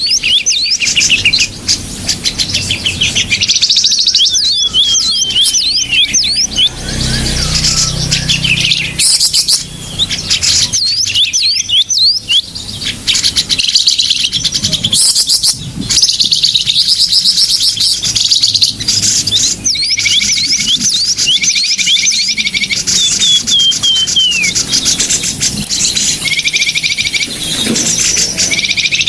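Many small birds chirping and trilling at once, rapid high calls and short falling whistles overlapping without a break: a bird-lure (pikat) recording of small-bird calls, played to draw small birds in.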